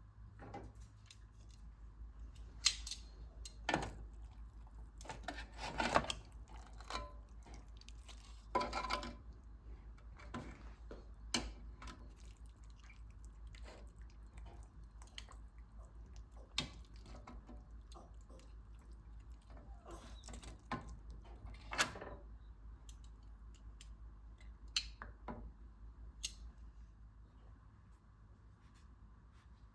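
Scattered light clicks, taps and clatters of household objects being handled, over a low steady hum.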